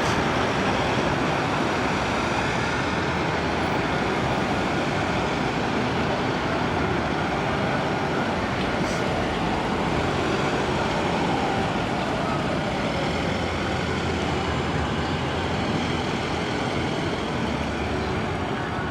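Steady street noise of vehicles driving past, engines and tyres, from a line of police vans and other traffic.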